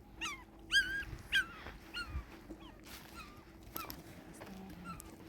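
A dog whimpering and yelping: a series of short, high-pitched cries that fall in pitch, the loudest about a second in.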